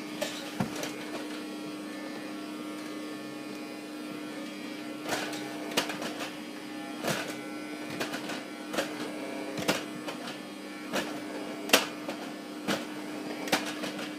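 Vacuum cleaner motor running with a steady hum, while sharp clicks and knocks come about once a second from about five seconds in.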